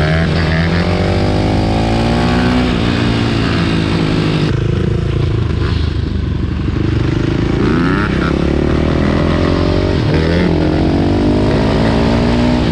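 Dirt bike engine accelerating hard, its pitch climbing and dropping as it revs up through the gears, then climbing again.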